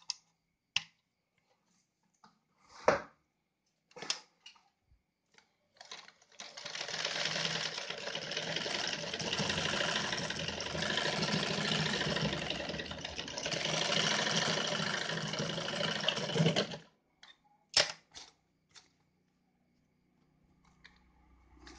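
Yamato 673 zigzag sewing machine running, stitching steadily for about ten seconds, with separate clicks and knocks of handling before it starts and after it stops.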